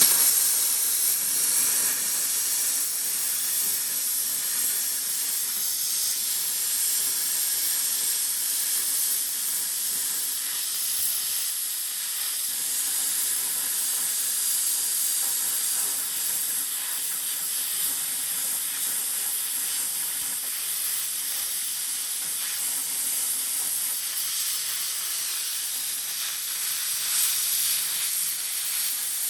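Small plasma cutter cutting plate: a steady, loud hiss of the arc and air jet that starts abruptly and holds at an even level.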